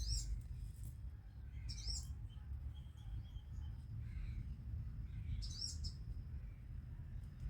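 A small bird calling in short, high chirping phrases, three of them a few seconds apart, with a few fainter notes between. A low rumble runs underneath.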